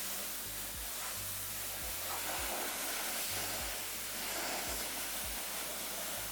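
Steady hissing spray while a car's engine bay is cleaned, with no breaks.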